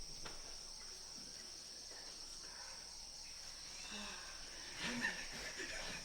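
Steady, high-pitched insect chorus droning evenly, with a few faint rustles and small knocks near the end.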